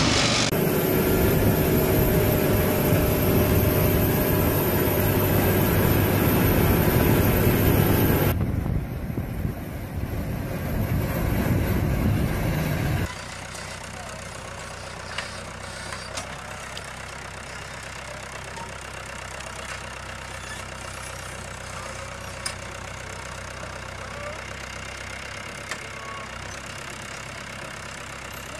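Tractor engines running, loud with steady tones for the first dozen seconds, then dropping suddenly to a quieter idle with a few sharp clicks.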